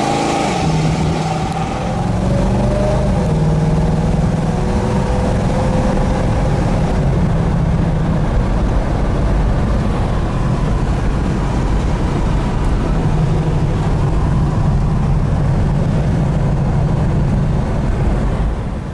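1972 Chevelle SS's 350 V8 running, a steady engine drone over a wash of noise, its pitch rising gently a few seconds in and then holding.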